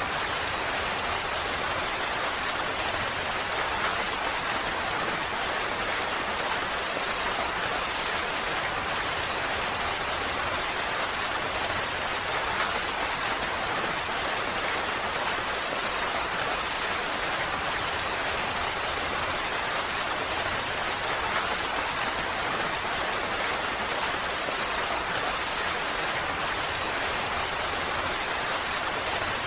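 Steady rain falling, an even hiss of rain with scattered individual drops ticking, unchanging throughout.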